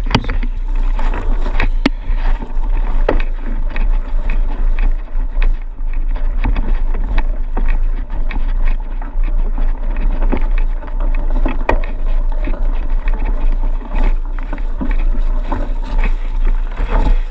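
Riding noise from a bike on the move: steady wind rumble on the microphone with frequent rattling clicks and knocks.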